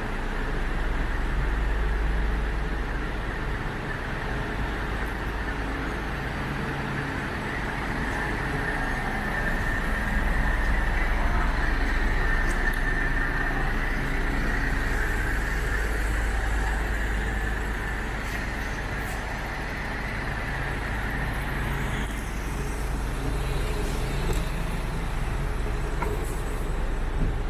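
Large truck diesel engine, the MAN TGS 18.400's 400 bhp Euro 5 turbo diesel, running steadily at idle, with a constant low rumble.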